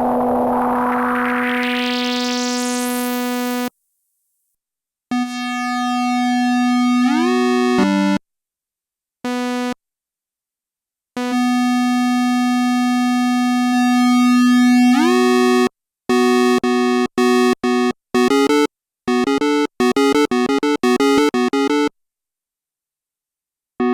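Sequential analog polysynth playing single test notes: a held note whose filter sweeps open and brightens, cut off after a few seconds, then held notes that glide up in pitch, and a run of short clipped notes near the end, with dead silence between phrases.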